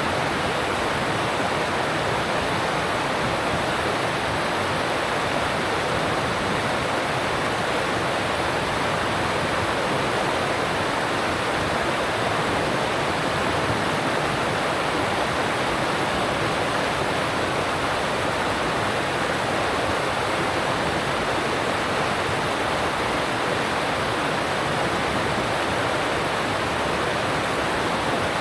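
Alpine mountain stream rushing over rocks, a steady, unbroken rush of water.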